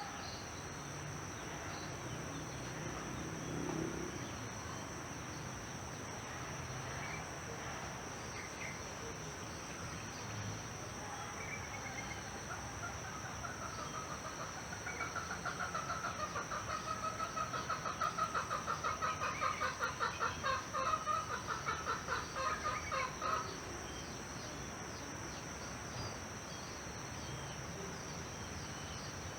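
Chickens clucking, with a rapid run of repeated calls from about halfway to two-thirds of the way through, over a steady high insect drone.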